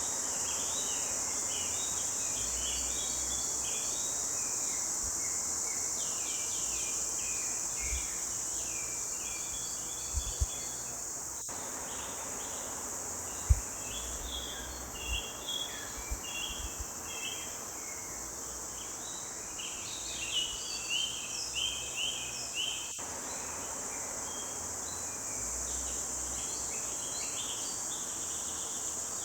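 Forest birds singing with many short chirps and trills over a steady high insect drone. A few brief low thumps sound now and then, the loudest about thirteen seconds in.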